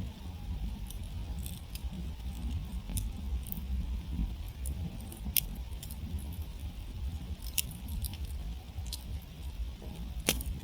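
Campfire burning, with irregular sharp crackles and pops from the wood over a steady low rumble; one louder pop near the end.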